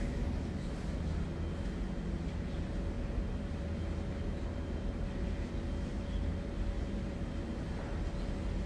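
Steady low rumble with a faint, steady hum above it.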